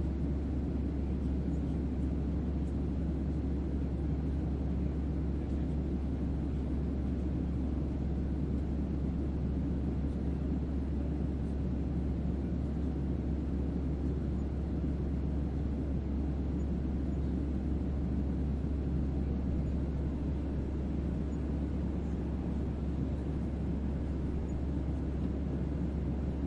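Starship-interior ambience for sleep: a steady, unchanging hum of low noise over a deep bass drone, with nothing standing out from it.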